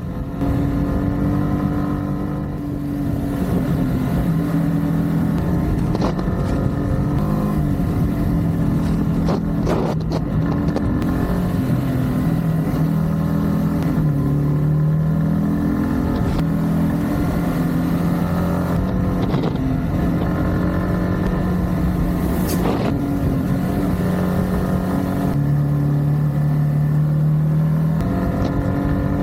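Yamaha MT-15's single-cylinder engine and exhaust running under way, the engine note stepping up and down repeatedly as the throttle and revs change, with an occasional brief click.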